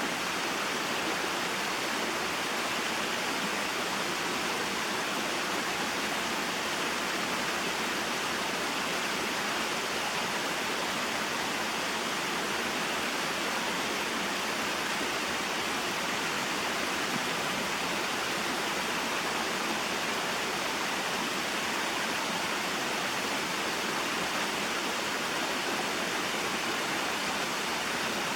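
Small waterfall and stream, a steady, even rush of falling and flowing water.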